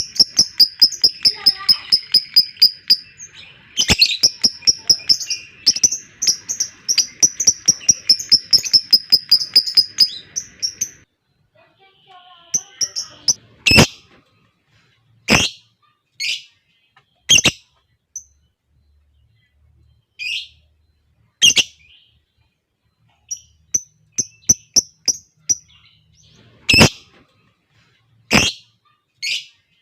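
Lovebird chattering in a long, fast, high-pitched trill (the ngekek), which breaks off about ten seconds in. After that come single sharp high calls a second or two apart.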